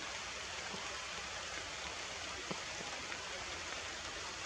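Steady heavy rain falling, an even hiss with a faint short tap about two and a half seconds in.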